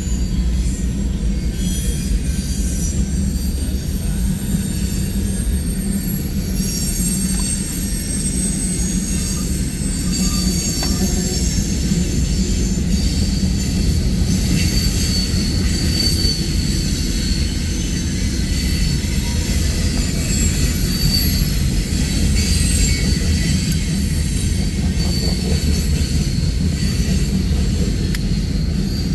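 Freight train cars rolling past close by: a steady low rumble of steel wheels on rail, with high-pitched wheel flange squeal as the cars take the curve onto the diverging line.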